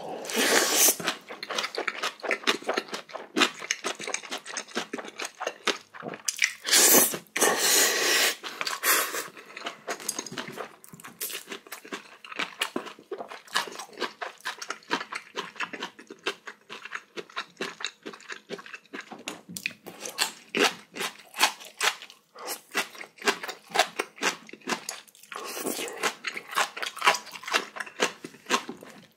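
Close-miked chewing of a mouthful of spicy bibimbap: a dense run of wet, irregular crunches and mouth clicks, with a few longer, louder noisy stretches about a second in, around seven to nine seconds, and near the end.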